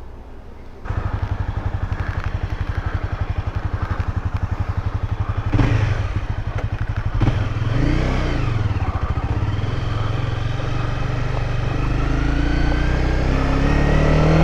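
Honda CBR300R single-cylinder motorcycle engine idling with an even thumping beat after cutting in about a second in, then revving and pulling away about halfway through, its pitch rising steadily as it accelerates near the end.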